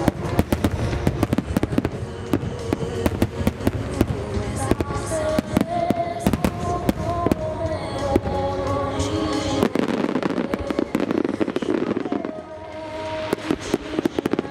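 Aerial fireworks shells bursting in a dense barrage, many sharp reports in quick succession, over music. The bursts ease off briefly near the end, then pick up again.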